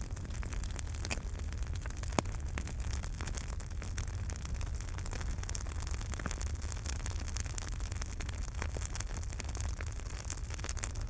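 Fireplace wood fire burning: a steady low rumble of the flames with frequent crackles and small pops, one sharper pop about two seconds in.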